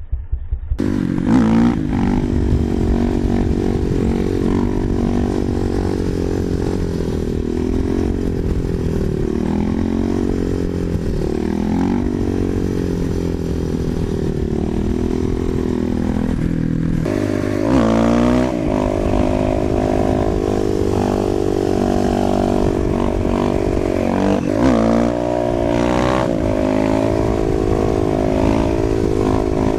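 Single-cylinder dirt bike engine running under way, its pitch dropping and climbing again several times as the rider shifts and gets back on the throttle, with wind noise on the microphone.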